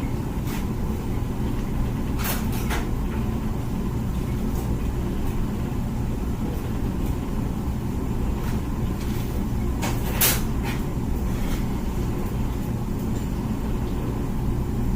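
Comfee dishwasher running its wash cycle: a steady pump-motor hum with water spraying, broken by a few short knocks or splashes, the loudest about ten seconds in.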